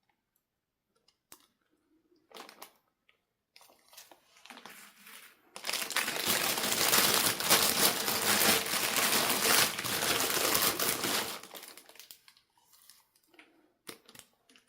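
Packaging being handled and crinkled during an unboxing: scattered small clicks and taps at first, then a loud stretch of continuous crinkling lasting about six seconds from a little past five seconds in, before it drops back to a few light clicks.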